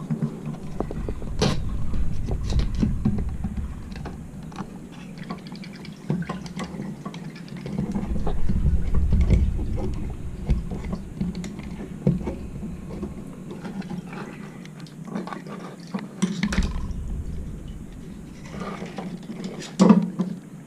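Scattered metallic clicks and knocks of hand tools being worked, with a low rumble in patches.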